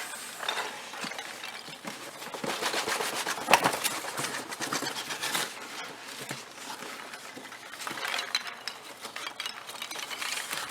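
Polystyrene packing peanuts rustling and clattering as hands dig through them in a shipping box, a dense run of small clicks and crackles that is busiest in the first half.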